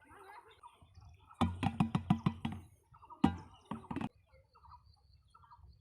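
A quick run of sharp clicks or taps, about eight in just over a second, followed by a few single knocks, over faint chirping.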